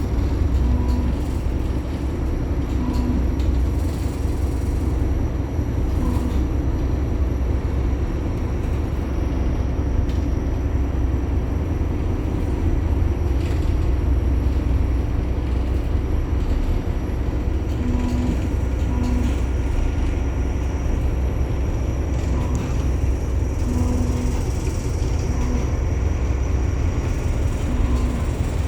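A ship's structure creaking and squeaking in short bursts every few seconds as it works in a storm, over a steady low rumble of the vessel.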